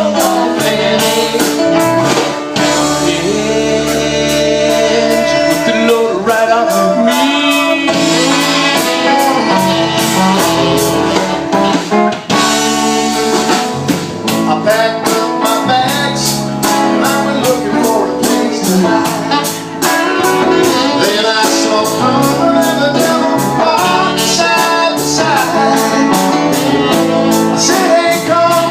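A live band playing a song: a singer over guitar and a drum kit keeping a steady beat.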